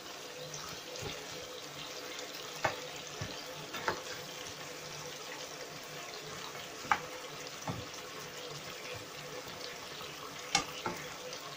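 Pork and chicken pieces cooking in a pan with a steady hiss, while they are turned over. A handful of sharp clinks of a utensil against the pan come at uneven intervals.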